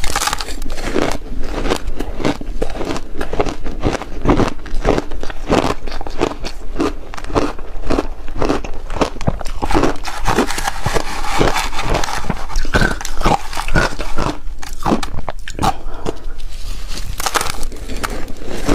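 Refrozen shaved ice being bitten and chewed close to the microphone: a steady run of crisp crunches, several a second.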